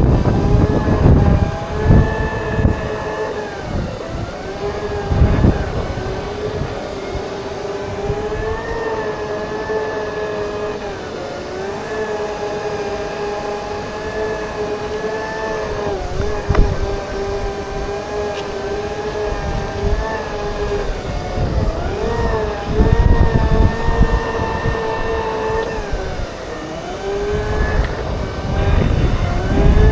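Segway's electric drive motors whining steadily while riding, the pitch dipping and rising gently as the speed changes, over an irregular low rumble.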